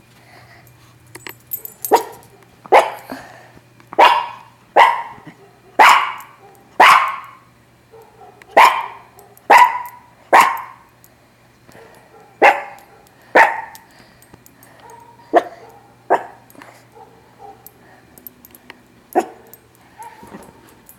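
A dog barking in a run of sharp barks about one a second, which thin out to single barks after the middle, over a steady low hum.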